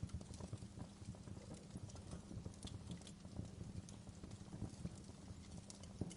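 Campfire burning, its wood crackling with frequent irregular sharp pops and snaps over a low steady rumble.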